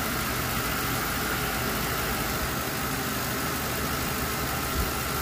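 Ford 4.6-litre V8 idling steadily with the hood open, with a faint steady high whine over the engine hum.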